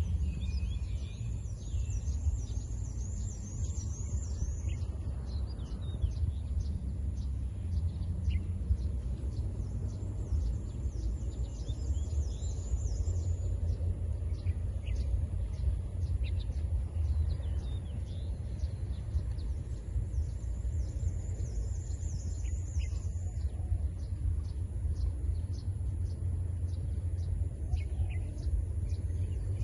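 Birds chirping outdoors, with high chirps and trills coming in a few spells, over a steady low rumble and a scatter of faint high ticks.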